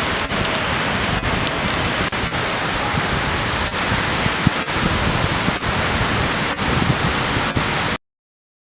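Steady rushing noise of wind and surf at the shoreline, even and unbroken, cutting out abruptly to silence near the end.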